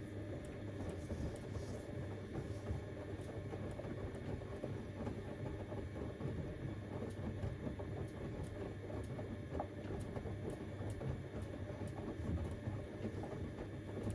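Siemens Extraklasse XLs 140 A front-loading washing machine turning its drum in the wash cycle: a motor hum with the laundry tumbling inside. It runs steadily, then stops at the end as the drum pauses.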